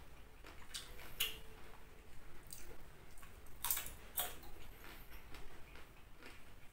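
Crunching and chewing of raw green beans close to the microphone: a few crisp crunches, the two sharpest a little past halfway, between quieter chewing.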